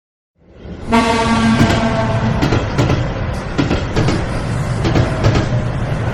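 A train passing. It fades in, sounds its horn for about a second, then runs on with a steady rumble and a quick clatter of wheels over the rail joints.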